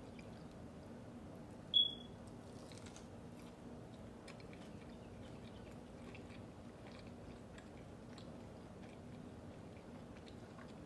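Close-miked eating of Chick-fil-A fast food: chewing and biting with small crunches, over a steady low hum. A brief high beep sounds about two seconds in.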